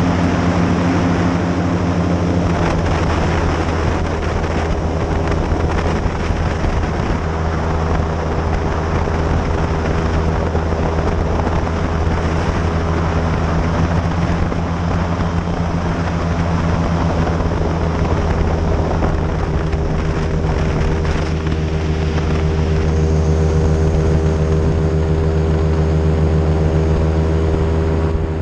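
Airboat's engine and air propeller running loud and steady with the boat under way, a constant drone over rushing air noise.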